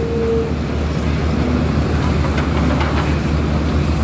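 Diesel engine of a heavy earthmoving machine, an excavator or bulldozer, running steadily under load with a low pulsing rumble. A brief steady tone sounds at the very start, and a few faint clinks come about two to three seconds in.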